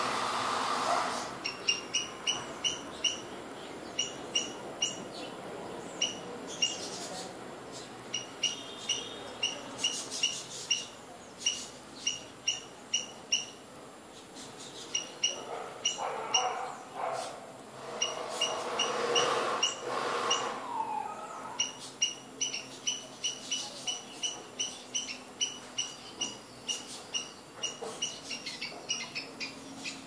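A small bird chirping: one short, high chirp repeated about twice a second, in runs broken by short pauses.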